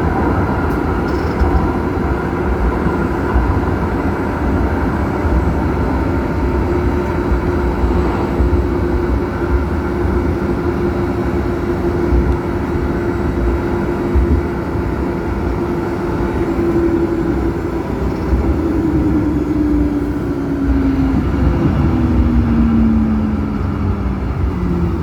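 Zürich tram running along the line: a constant rumble of wheels on rail with an electric motor whine that holds one pitch, then falls in steps over the last several seconds as the tram slows.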